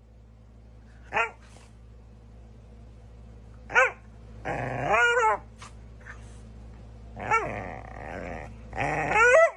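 A dog barking and growling: two short single barks, then three longer stretches of growling mixed with barks.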